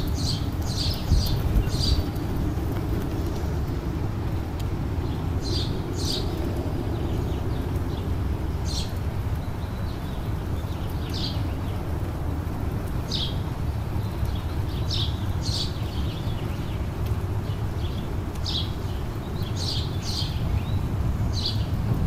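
Birds calling with short, high chirps, a quick cluster near the start and then single or paired chirps every second or two, over a steady low rushing noise.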